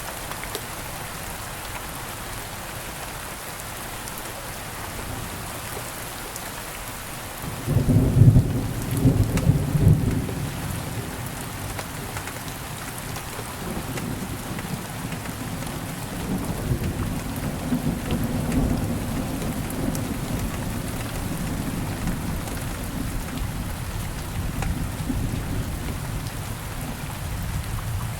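Steady rain falling. About a third of the way in, a loud, deep clap of thunder rumbles for about three seconds, then a longer, softer rumble of thunder runs on under the rain.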